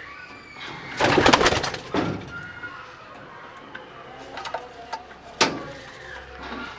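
Racing homer pigeons cooing. A loud rustling burst lasts about a second, starting about a second in, and a sharp knock comes near the end.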